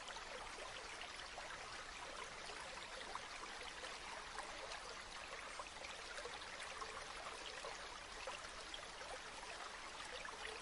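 River water flowing steadily, a soft even babble made of many tiny splashes.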